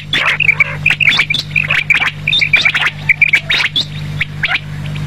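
Quail calling: many short, quick notes in small clusters, repeated over and over, with a steady low hum underneath. The calls stop shortly before the end, leaving only the hum.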